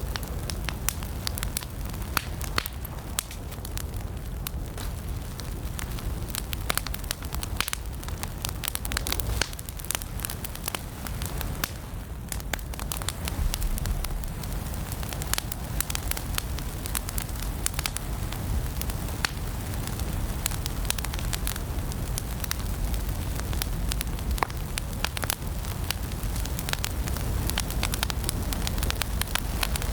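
Fire burning in a fireplace, crackling steadily with frequent irregular sharp pops over a low, even rumble of flames.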